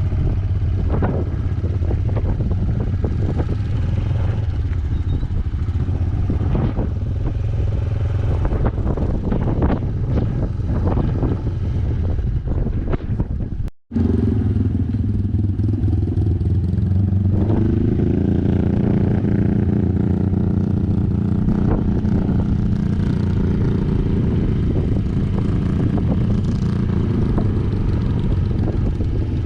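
Yamaha YBR125G single-cylinder four-stroke motorcycle engine running while riding, with knocks and rattles through the first half. After a brief cut about fourteen seconds in, the engine note rises and then holds steady.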